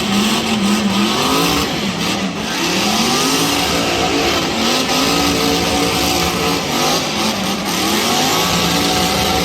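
Car engine revving hard in a burnout, its pitch rising and falling again and again over a steady rush of noise.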